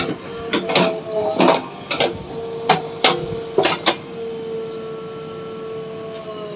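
A steady mechanical hum with a string of sharp clicks and knocks during the first four seconds, then the hum alone.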